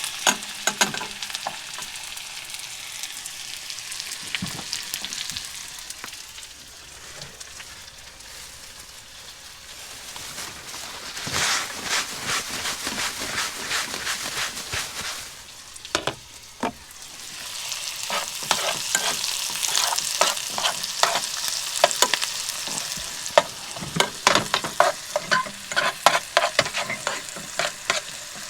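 Food sizzling in a frying pan while it is stirred, the utensil clicking and scraping against the pan. The sizzle dies down for a few seconds and grows louder again from about a third of the way in.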